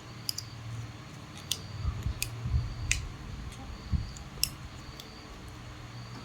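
Scattered sharp clicks and a few dull knocks of hand work at a small motor repair, over a low steady hum.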